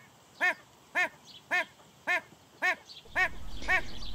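A bird calling over and over, short arched notes about two a second.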